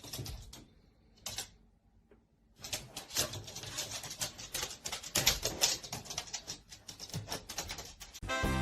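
Rapid, irregular clicking and tapping: a few clicks at first, a short lull, then a long dense run of clicks.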